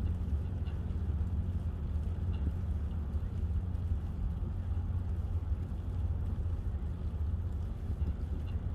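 Steady low rumble of riding noise and wind on the microphone during a bike ride, with a few faint high ticks now and then.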